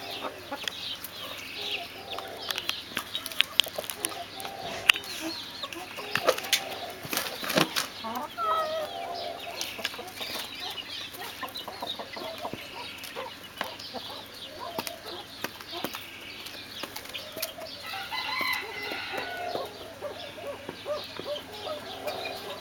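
Brahma chickens clucking, with sharp clicks and taps scattered among the calls, most of them a few seconds in.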